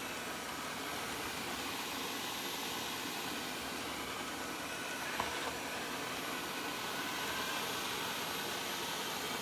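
Wyze robot vacuum running with a steady, even hiss as it drives back toward its charging dock, with a faint click about five seconds in.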